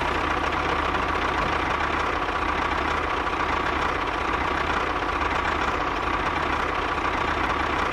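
Homemade mini tractor's motor running steadily, a constant hum with a thin steady whine over it.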